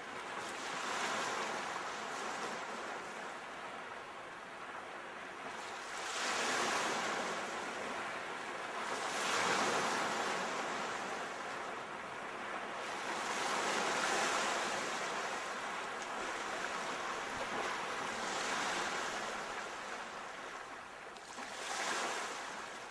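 Ocean surf: waves rushing in and drawing back, the wash swelling and fading every three to five seconds.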